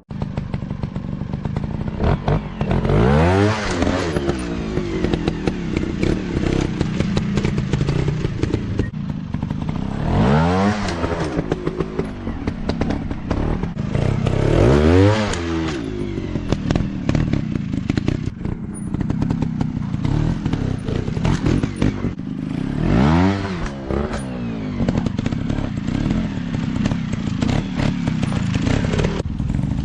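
Dirt bike engines running and revving, with four big swells of revs that rise and fall, over a steady stream of knocks and clattering.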